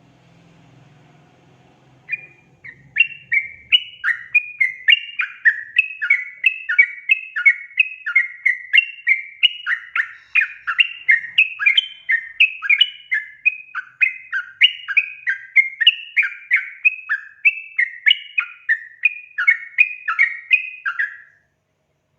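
Yellow-vented bulbul (trucukan) calling in a long, unbroken run of quick bubbling chirps, about two notes a second. It starts about two seconds in and stops abruptly near the end.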